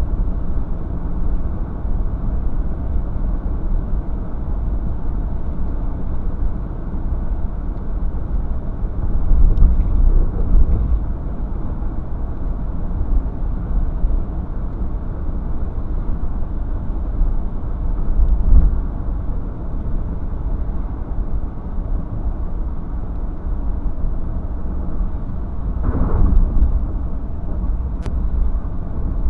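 Steady low rumble of a car, road and engine noise as heard from inside, swelling louder a few times.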